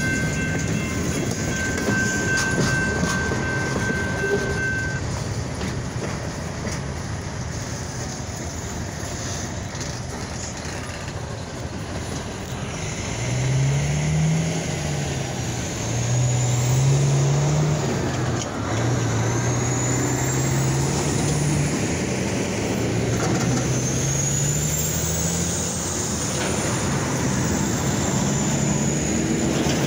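Freight train cars rolling past over the rails, with a steady high ringing tone that stops about five seconds in, then the train's rumble fading as it moves away. From about halfway, a road vehicle's engine accelerates, its pitch climbing and dropping several times as it shifts up through the gears.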